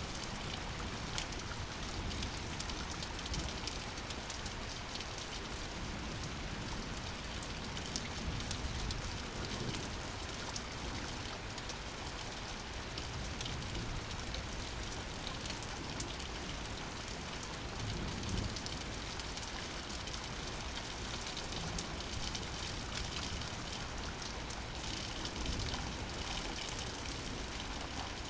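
Steady rain falling, with many individual drops clicking close by over an even hiss.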